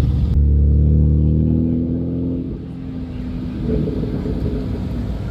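A BMW's engine heard from inside the cabin: a deep, steady drone whose pitch slides down and fades about two seconds in, as the car slows.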